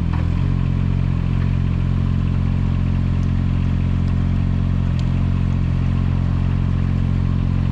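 Engine of an SD Lanch SDLE20 mini excavator running at a steady speed, with a few faint ticks over it.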